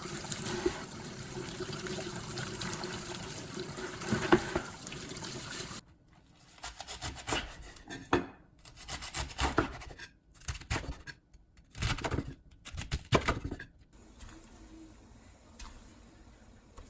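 Kitchen tap water running steadily at the sink while napa cabbage is washed; it stops about six seconds in. Irregular rubbing and scraping strokes of the wet cabbage being handled follow for several seconds.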